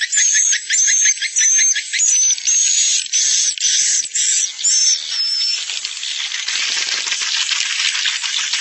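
Swiftlet roosting-call lure recording ('suara inap') used to draw swiftlets into a nest house: buzzy swiftlet chirps, each with a high whistled note on top, about two a second. About five seconds in they give way to a denser, continuous chatter of rapid trills.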